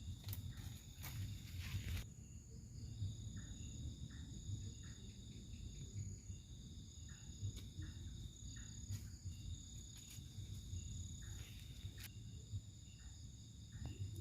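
Insects chirping in the background: steady high-pitched trills that break off and resume every second or two, with short chirps repeating beneath them. A few sharp clicks and a low rumble run alongside.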